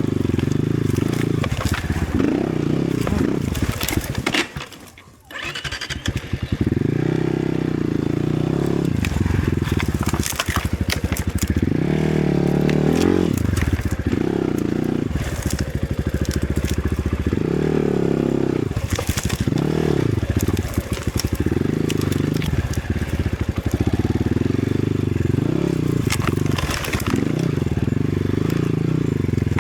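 Enduro dirt bike engine being ridden on a forest trail, revving up and down in bursts as the throttle opens and closes, with sharp cracks and knocks over it. The engine sound drops away briefly about five seconds in.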